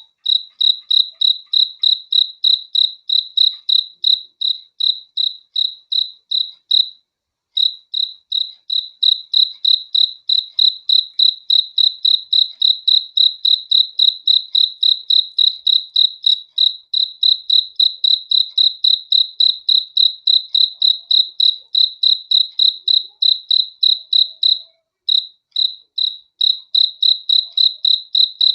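A single cricket chirping in a steady, even rhythm of about three high-pitched chirps a second, pausing briefly twice.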